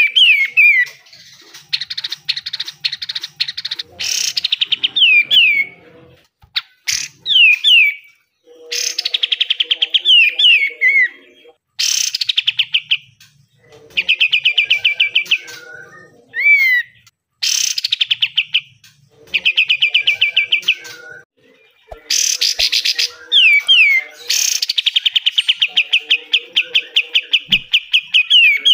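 Kapas tembak bulbul singing: short whistled notes that slide downward, alternating with fast rattling chatter bursts (besetan) of one to three seconds, phrase after phrase with brief pauses.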